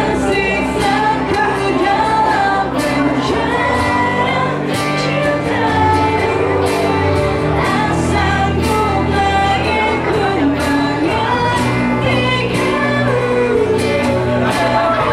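Live pop-rock band playing: a female lead vocalist singing over electric guitars, bass, keyboard and drums with regular cymbal hits, heard in the unmixed sound of the room.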